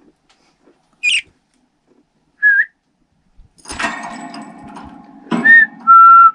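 Short whistled notes answered by a budgerigar's chirps and chatter. A sharp high chirp comes about a second in, and a burst of bird chatter follows from about the middle. The last, steady whistle is the loudest.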